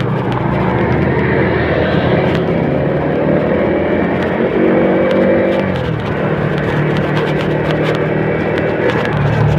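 A vehicle engine running steadily, its pitch shifting about six seconds in.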